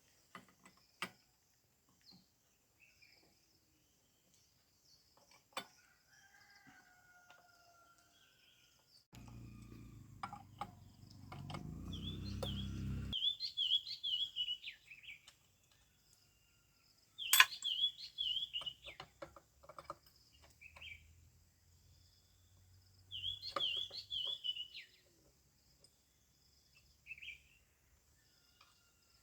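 Small birds chirping in repeated short high phrases, mixed with scattered sharp clicks and knocks. A low rumble swells for about four seconds near the middle and then stops suddenly.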